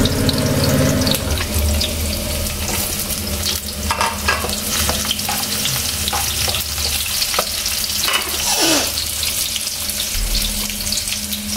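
Chopped onions frying in hot oil in a pan, a steady sizzle with small clicks from a utensil stirring them.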